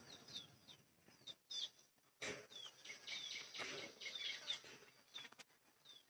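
Faint chirping of small birds: many short, high calls that drop in pitch, scattered throughout.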